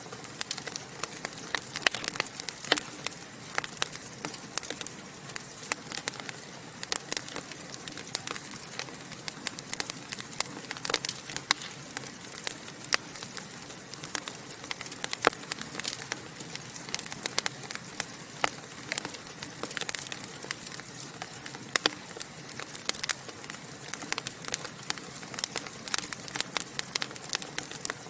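Wood fire in a fireplace crackling and popping, with frequent sharp snaps over a steady low hiss.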